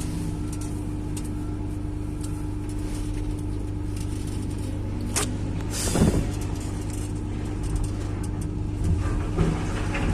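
Crawler excavator's diesel engine running steadily, with a sharp knock about five seconds in, a louder clank around six seconds and a couple of lighter knocks near the end.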